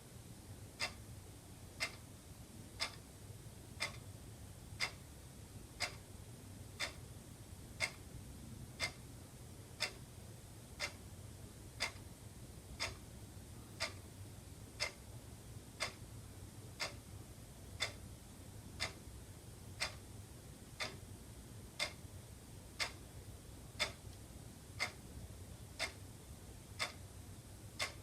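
Wall clock ticking steadily, one crisp tick a second, over a faint low hum.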